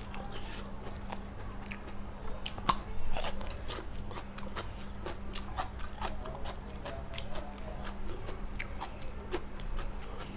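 A person chewing and biting a mouthful of blanched-shrimp larb, with wet clicks and crunches throughout and a louder crunch about three seconds in.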